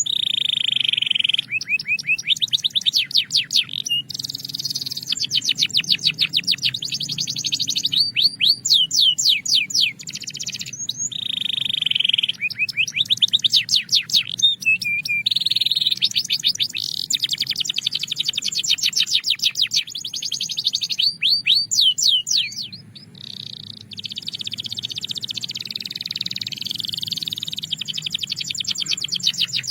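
Belgian canary singing: long fast trills of rapidly repeated high notes alternating with held buzzing tones, with a brief pause about 23 seconds in. A faint low hum runs underneath.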